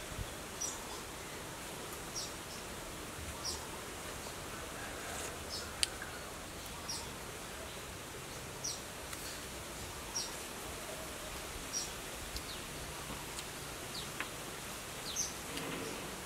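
Garden ambience: a bird repeating short, high, falling chirps every second or two over a steady background hiss, with one sharp click near the middle.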